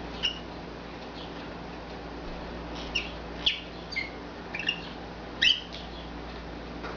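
A bird giving short, sharp chirps, about half a dozen of them and loudest about five and a half seconds in, over a steady low hum.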